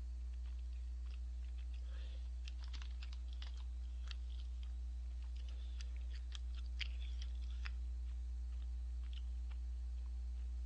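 Close eating sounds from chewy tteokbokki rice cakes: scattered wet chewing smacks and small clicks, thickest in the middle, with a skewer picking at a plastic tray. A steady low hum runs underneath.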